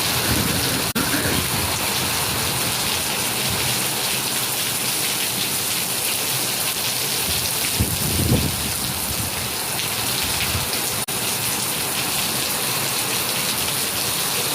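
Heavy rain pouring down steadily, with a short low rumble about eight seconds in.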